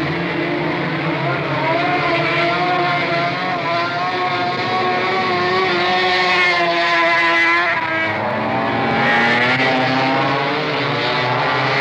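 Several racing motorcycle engines running hard together, their pitches wavering up and down; the dominant engine note shifts lower about eight seconds in.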